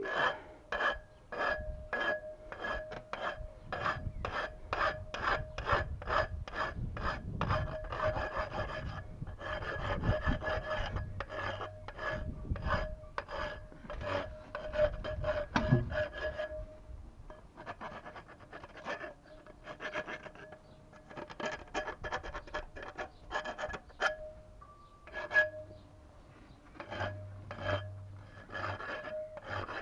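Rasping back-and-forth strokes of a hand saw or file working a ringing piece of plumbing metal, about two to three strokes a second, with a steady ringing tone under the strokes. The strokes pause briefly about halfway and again near the end.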